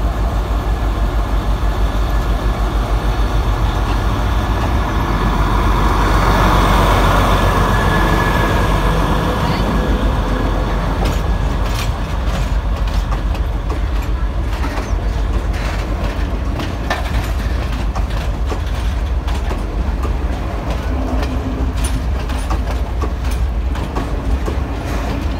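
Sri Lanka Railways S8 diesel multiple unit pulling out and passing close by: a steady rumble of engine and running gear, loudest about seven seconds in. From about eleven seconds in, the wheels click over rail joints as the carriages roll past.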